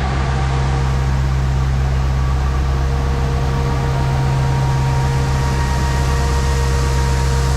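Grain-unloading machinery at a bin, most likely the auger, running with a steady, even hum and a couple of faint steady higher tones.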